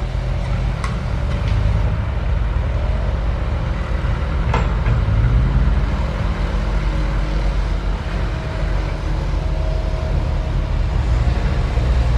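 SANY SY135F excavator's diesel engine running steadily under load, with a few sharp knocks, about four, scattered through.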